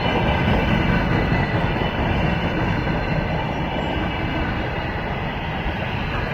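Freight train rolling past, its wagons' wheels rumbling steadily on the rails, with faint high steady tones above the rumble.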